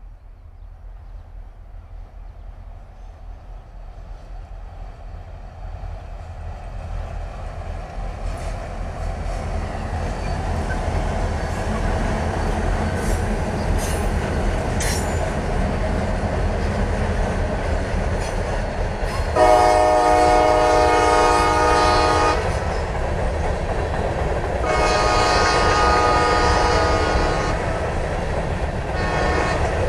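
Lake State Railway freight train led by diesel locomotives, its rumble growing louder as it approaches. The locomotive's horn sounds two long blasts about 20 and 25 seconds in, the loudest sound here. Then hopper cars roll past with wheels clacking over the rail joints.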